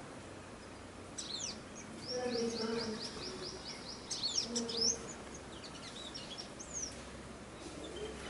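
Garden birds calling: several sharp, high whistled notes that sweep steeply downward, and about two seconds in a fast run of about ten repeated high notes.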